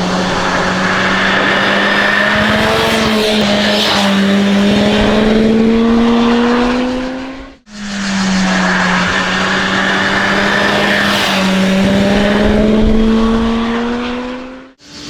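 Kawasaki Z H2's supercharged inline-four engine running under steady throttle, its pitch rising slowly as the bike gathers speed, with rushing wind noise. The sound cuts out abruptly about halfway through, then the engine is heard again, rising slowly in the same way.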